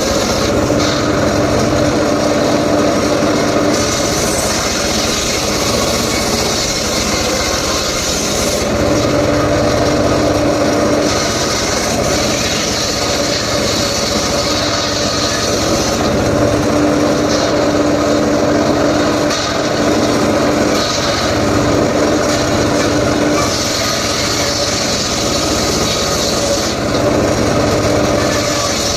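Power saw cutting mahogany wood in repeated passes. A steady machine hum alternates every few seconds with a louder high-pitched hiss as the blade goes into the wood.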